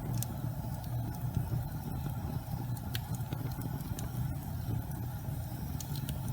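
Gas fireplace flames burning with a steady low rumble, broken by a scattered handful of faint sharp crackles.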